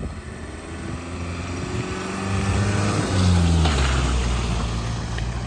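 Car engine revving hard under load, its pitch climbing for about three seconds, then dropping and settling lower, as the car is driven through mud on a second attempt.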